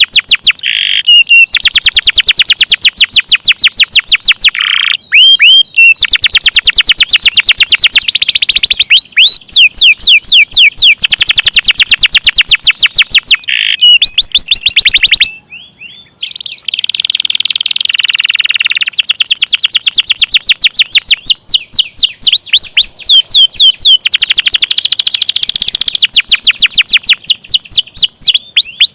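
Domestic canary singing long, fast rolls of rapidly repeated notes, with a short break about fifteen seconds in.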